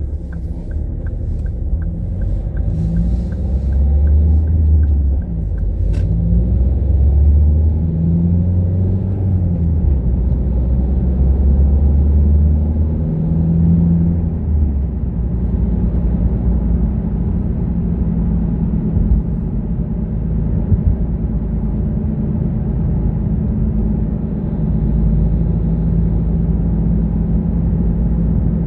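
A car driving, with its engine and road noise making a steady low rumble; the engine note swells and eases several times in the first half, then holds steadier. A quick regular ticking runs through the first few seconds and ends with a sharp click about six seconds in.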